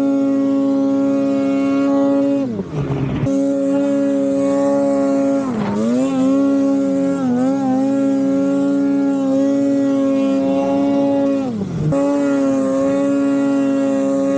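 Snowmobile engine running at high, steady revs, with the throttle briefly let off and reapplied three times: the pitch drops and climbs back about two and a half seconds in, again around five and a half seconds, and once more a couple of seconds before the end.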